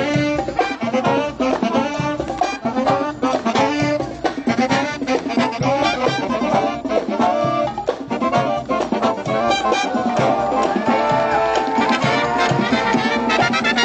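A live college brass band playing jazz, with trumpets, trombones and saxophones over quick drum hits; the horns move onto longer held notes in the last few seconds.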